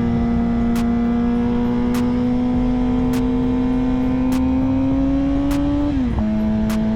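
Suzuki GSX-R sport bike's inline-four engine pulling steadily in one gear, its pitch climbing slowly, then dropping sharply about six seconds in as the rider shifts up and settles at a steady cruise. A faint tick comes about every second.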